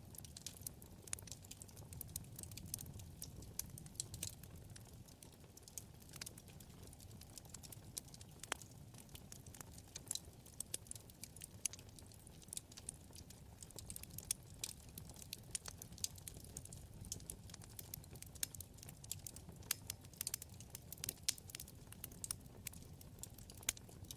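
Wood fire crackling: irregular sharp pops and snaps, several a second, over a low steady rumble of flame.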